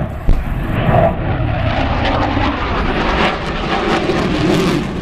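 Jet noise from a Tornado GR4's twin RB199 turbofan engines as the aircraft passes, a dense rushing sound that grows brighter and harsher from about a second and a half in. There is a sharp click about a third of a second in.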